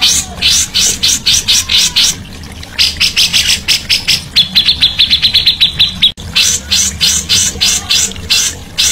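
A songbird calling in a rapid series of sharp, harsh chirps, about five a second, breaking into a faster, even run of notes in the middle. A brief dropout comes near the six-second mark, with a steady low hum underneath throughout.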